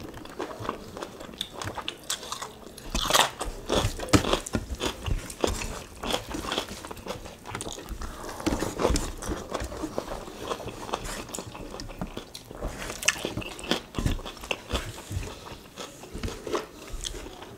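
Two people chewing and smacking as they eat rice with asam pedas tetel by hand: a steady run of irregular wet clicks and smacks, with no speech.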